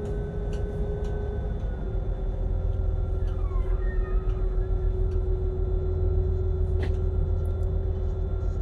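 Boat engine running steadily with a low drone, under wind and sea noise.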